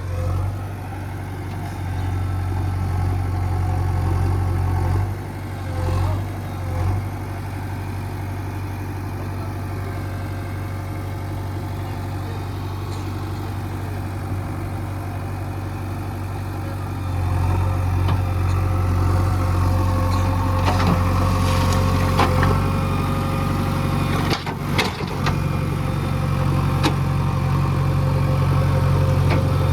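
Diesel engine of earthmoving machinery running steadily, louder from about 17 s in, with a few sharp knocks a little after 20 s.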